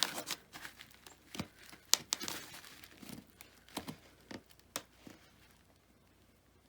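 Foam board pieces being handled and pressed together: crinkling rustles and several sharp clicks and taps, dying away after about five seconds.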